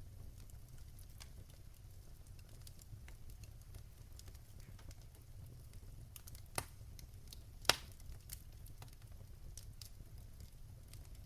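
Wood fire crackling in a fireplace: a steady low rumble with scattered sharp crackles, and two louder pops about halfway through.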